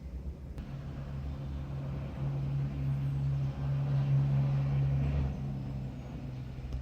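A low, steady engine hum that grows louder toward the middle and then fades.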